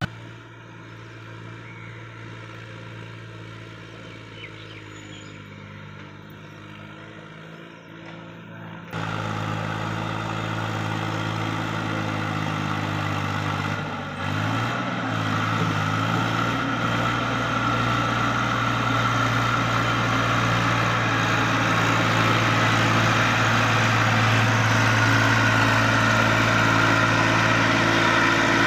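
Heavy diesel engine running steadily. It is quieter at first and jumps suddenly louder about nine seconds in, dips briefly in pitch about halfway through, then grows slowly louder.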